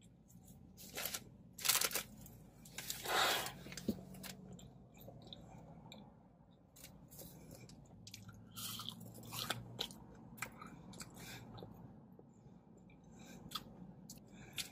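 A person chewing and biting into a fast-food burger and fries, with a few louder crunchy bites in the first four seconds, then quieter chewing.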